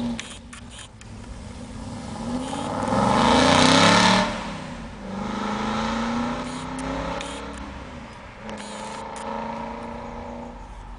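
Aston Martin sports car passing at full throttle. The engine note builds to a loud peak about four seconds in, then drops suddenly as the car goes by. It keeps revving up through two more gears as it pulls away into the distance.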